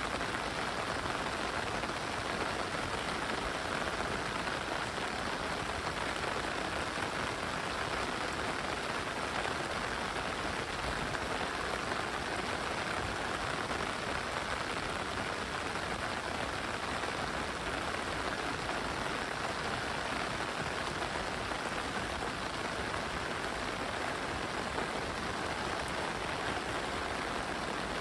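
Heavy rain falling steadily, a dense, even patter of raindrops on the ground and foliage.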